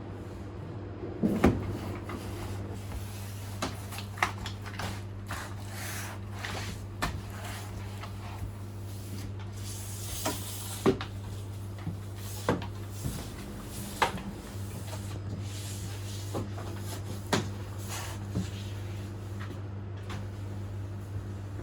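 Irregular knocks, clicks and bumps of cleaning work inside a tram, with a few brief hissing noises, over a steady low hum.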